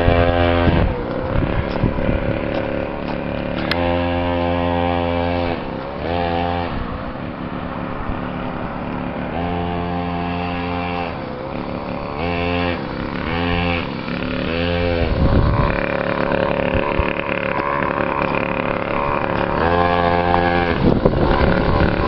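Custom chopper motorcycle engine running and being revved up and back down again and again, with several held revs and steadier running in between.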